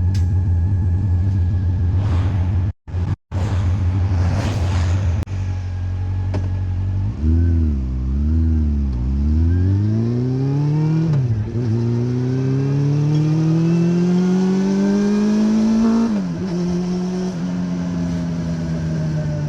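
Honda CB400 Revo inline-four motorcycle engine through a Moriwaki exhaust, running steadily at low revs, with two short cutouts in the sound early on. Then the revs waver and it pulls away: the pitch climbs, drops at an upshift, climbs again in a long pull, drops at a second upshift near the end and eases off.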